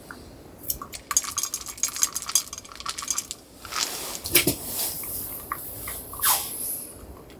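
Dishes and metal utensils clattering, with a quick run of light clinks and taps, then scraping and handling noise.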